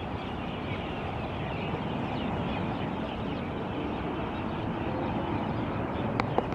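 A flock of birds chattering together in a dense, continuous chorus of many overlapping chirps, with a couple of sharp clicks near the end.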